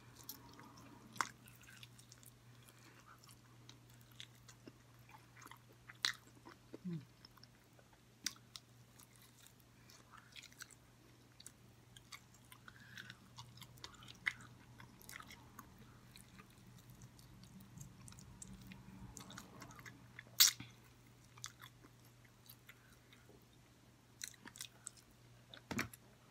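Close-up eating of sauced fried chicken wings: faint biting and chewing with scattered soft mouth clicks over a low steady hum, and one sharper click about twenty seconds in.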